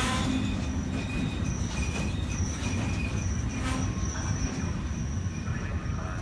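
Train passing with its wheels squealing on the rails, the high squeal coming and going over a steady low rumble, with a few sharp clicks of wheels over rail joints.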